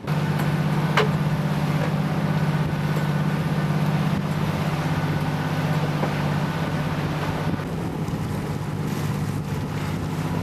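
A boat's motor running steadily under way, a low even hum, with wind and water rushing past. A brief, sharply falling whistle sounds about a second in.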